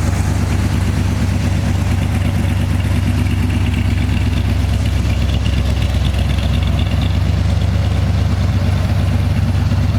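1968 Chevrolet Corvette's 327 small-block V8 idling steadily, with a fast, even low-pitched rumble.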